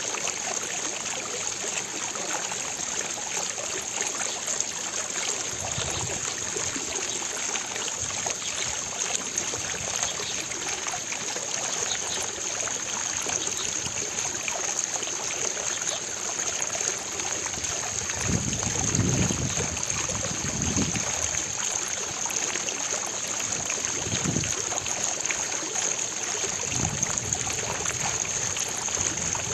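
Fountain water splashing and falling steadily into its basin, an even rushing sound. A few brief low rumbles come in past the middle.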